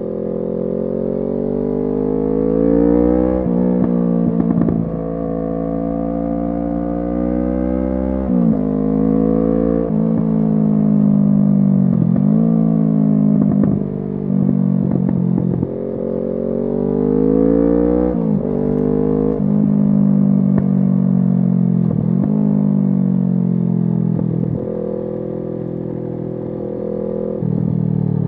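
2017 Kawasaki Z650's 649 cc parallel-twin engine through an SC Project exhaust, under way. The pitch climbs under acceleration and drops sharply at each gear change, over and over; some changes come close together, with a quick dip and rise.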